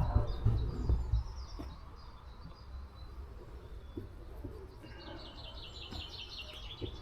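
Small songbird singing in the garden: scattered high chirps, then about five seconds in a quick run of repeated high notes lasting under two seconds. A low rumble fills the first second.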